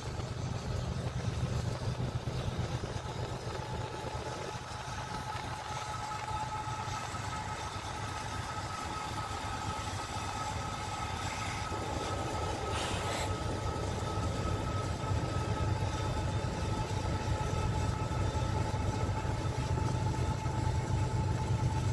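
Train running by on the rails: a steady low rumble with two steady, ringing high tones above it, growing gradually louder toward the end. A short hiss-like noise breaks in about two-thirds of the way through.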